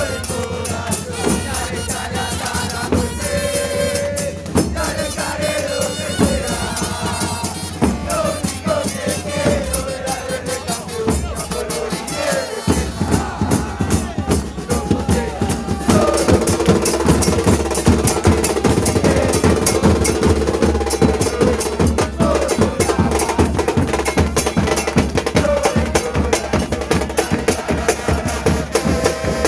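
Football supporters' band drumming a fast, steady rhythm on drums, with voices singing over it. A steady held note joins about halfway through, and the whole sound grows louder there.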